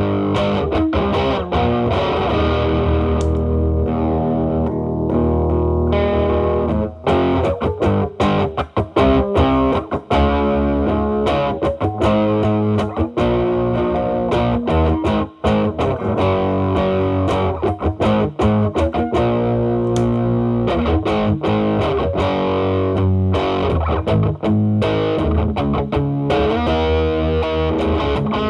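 Electric guitar improvising single-note lines and chords through an MXR Distortion+ stacked with a second gain booster into a Marshall Valvestate amp's drive channel. The tone is overdriven, with the guitar's volume rolled back to clean the drive up. The humbucker-equipped Gibson SG plays continuously, with a few brief pauses between phrases.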